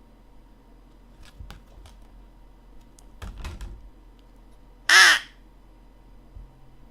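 A handheld mouth-blown crow call giving a single short, loud caw about five seconds in, after a few faint clicks and knocks of the call being handled.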